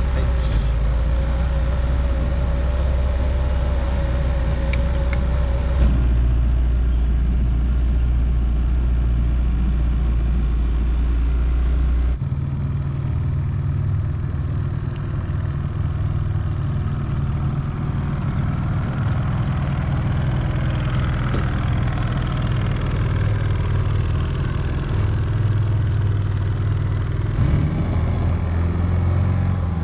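A motor vehicle's engine running steadily. About twelve seconds in the sound changes abruptly to a different, somewhat higher-pitched engine drone.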